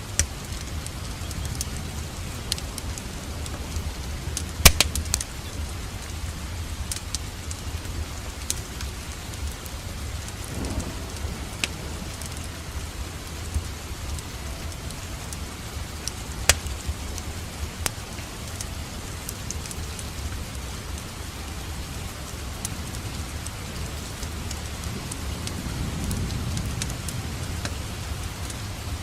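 Wood fire crackling in a fireplace, with scattered sharp pops (the loudest about five seconds in, another about sixteen seconds in), over a steady hiss of rain and a low rumble.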